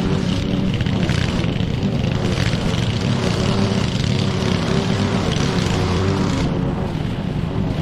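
Petrol lawn mower engine running steadily at working speed.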